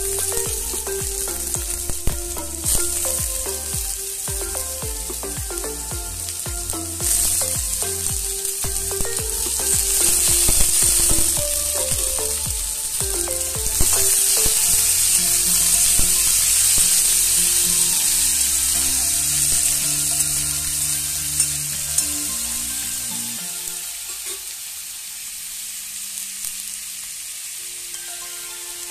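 Diced raw potatoes sizzling as they fry in hot oil in a metal wok, stirred with a spatula that knocks against the pan now and then. The sizzle swells in the middle and eases near the end.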